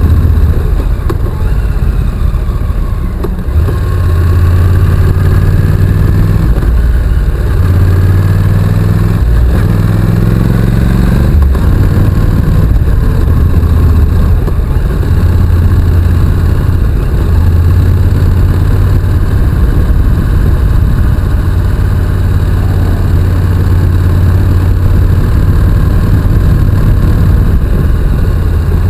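Honda NC750X's parallel-twin engine running under way, its note rising and falling in steps with throttle and gear changes.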